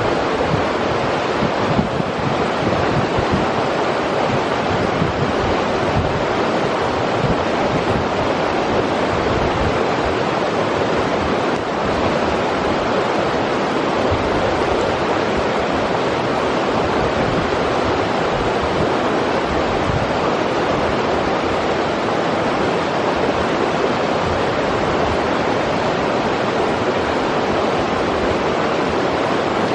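River water rushing, a steady, unbroken roar of flowing water.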